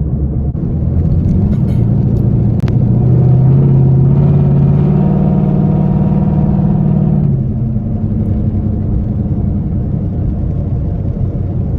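Straight-piped 2013 Camaro SS 6.2-litre V8 with its exhaust fully deleted, heard from the cabin under acceleration: the engine note climbs in pitch over the first few seconds, holds loud, then drops and eases off about seven seconds in.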